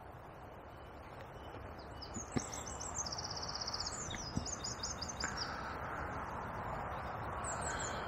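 A small songbird singing high chirping phrases, one with a fast trill, and a short phrase again near the end, over a steady rush of river water. Two soft knocks a couple of seconds apart.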